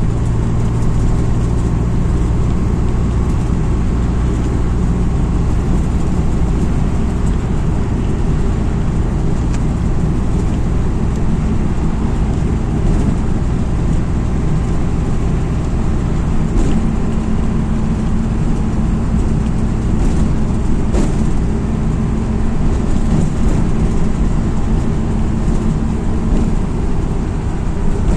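MAZ-206 city bus's diesel engine and road noise heard from inside the passenger cabin while driving: a steady low hum, with the engine note rising a little about halfway through and a few short knocks and rattles.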